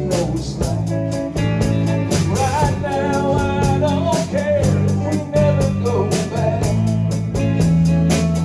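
A band playing a laid-back country-rock song: steady bass and drum beat, with a wavering melody line on top.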